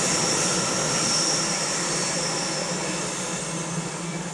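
ICE 3 high-speed train rolling away along curved track, its running noise fading steadily. A high wheel squeal dies away in the first couple of seconds.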